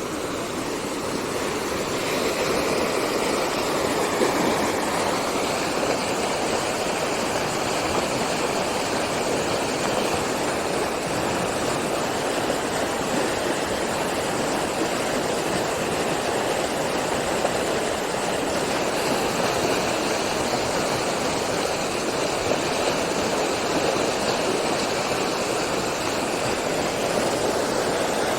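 Steady rush of water flowing down a rain-swollen stream, getting a little louder over the first couple of seconds.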